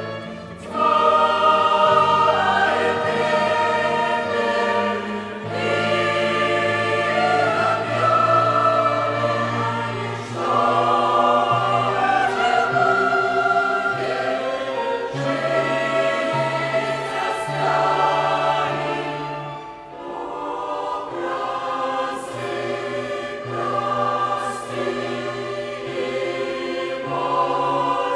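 Mixed church choir singing a slow hymn in parts, accompanied by a violin ensemble, with sustained low notes beneath the voices.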